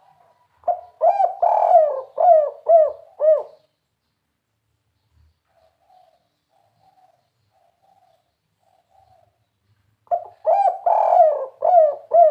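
Spotted dove (tekukur) singing its kuk-3 cooing song: two loud phrases of several rounded coos, one about a second in and another near the end, with faint softer coos in between.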